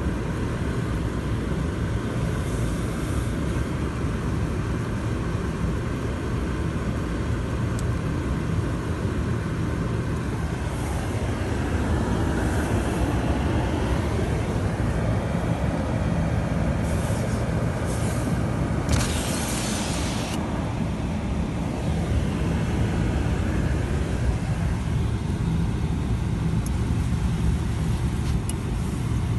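Steady engine and road rumble of a vehicle driving on a highway in strong wind, with a brief rushing hiss about two-thirds of the way through.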